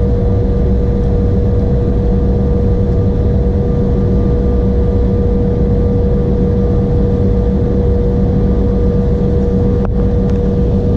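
Cabin noise inside an Embraer E175 airliner with its GE CF34 turbofan engines running steadily: a loud, even low rumble with a constant hum and a fainter whine above it, and a brief click about ten seconds in.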